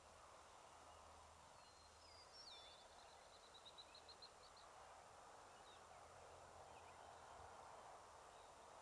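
Near silence: faint outdoor hiss, with a bird singing one brief phrase about two seconds in, a falling note followed by a quick run of about ten short, high notes.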